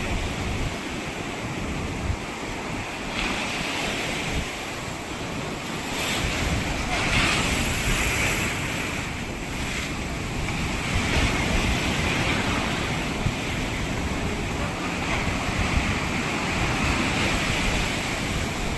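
Ocean surf washing onto a beach, a steady hiss of breaking waves that swells every few seconds, with wind buffeting the microphone.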